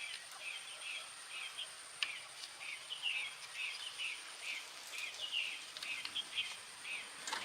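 Short, high chirps repeating several times a second, over a steady thin high-pitched tone, with a few faint clicks.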